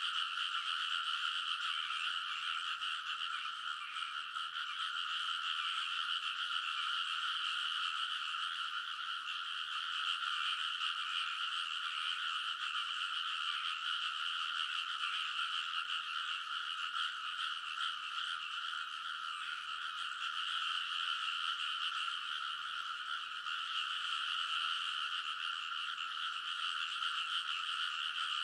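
A dense chorus of many frogs calling together in a rice paddy: countless overlapping calls merge into one steady, unbroken shrill wall of sound with no pauses.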